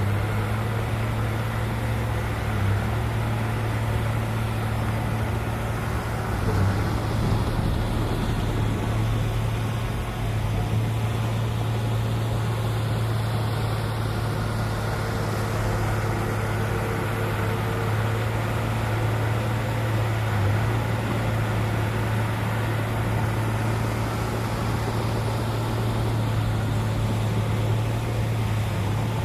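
Heavy diesel earthmoving machinery running steadily, a constant low engine hum with a few brief knocks about six to seven seconds in.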